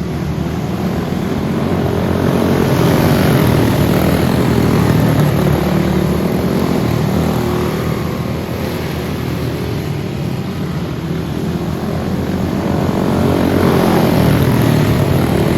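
Racing karts with Briggs & Stratton Animal single-cylinder four-stroke engines running on track, a steady drone whose pitch rises and falls with the throttle. It swells louder as karts come close about three seconds in and again near the end.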